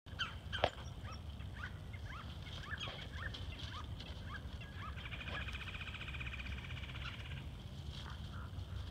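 Small birds chirping with short rising-and-falling calls, then one fast, even trill lasting about two and a half seconds from around five seconds in, over a steady low rumble. A single sharp knock is heard just over half a second in.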